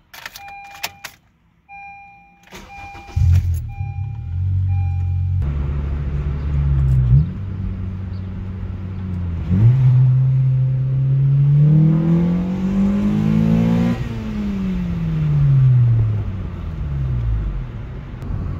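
A car's warning chime beeps about five times, evenly spaced. Then the Honda Civic's K24 four-cylinder starts and the car pulls away, heard from inside the cabin. The engine climbs through gear changes, rising steadily in pitch to a peak, then falls as it eases off near the end.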